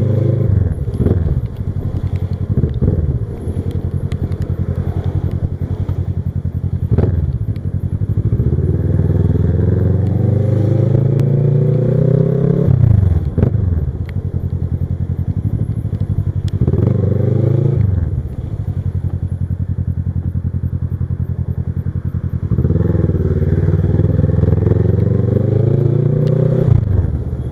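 Kawasaki Versys 650's parallel-twin engine under way, accelerating with the revs climbing and then dropping sharply at each gear change, several times over.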